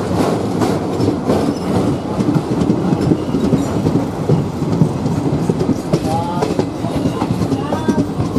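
Passenger train running along the track, heard from aboard, with the steady rumble and clickety-clack of the wheels over the rail joints.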